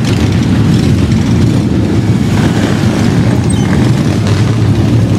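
Engines of a large crowd of motorcycles riding past in a steady stream: a loud, continuous low rumble.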